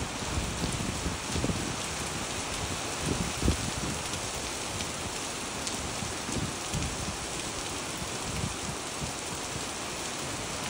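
Steady rain falling on wet pavement and puddles, with scattered low thumps throughout, the loudest about three and a half seconds in.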